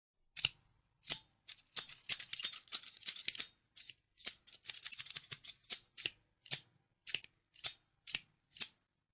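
Scissors snipping: a first cut, then quick runs of cuts, then single snips about every half second near the end.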